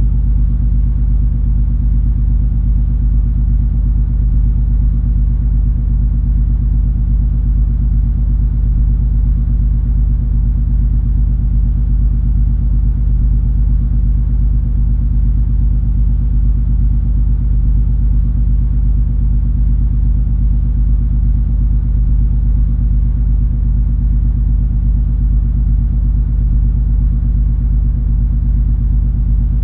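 Steady low rumble and hum of the MS Color Fantasy cruise ferry's engines and machinery while the ship is under way, with several steady low tones over a deep drone.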